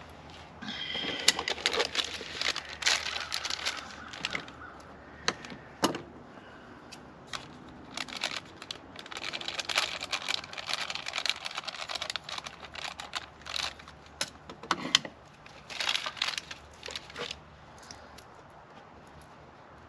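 Packaging being handled and opened by hand: rustling and crinkling with many small clicks, in three spells, and a sharp knock about six seconds in.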